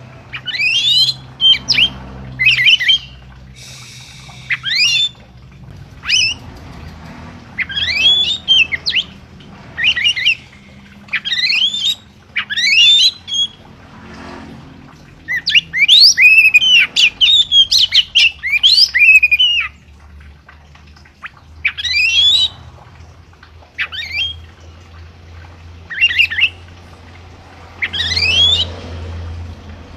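A caged songbird sings loud, short phrases of sharp whistled glides, one phrase every second or two, with a longer unbroken run of song about halfway through.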